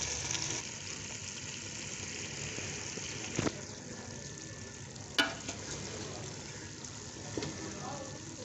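Okra masala sizzling in a pot as it is stirred and gently fried with a spatula, cooking down until the okra goes soft. There are a few sharp knocks of the spatula on the pot, the loudest about five seconds in.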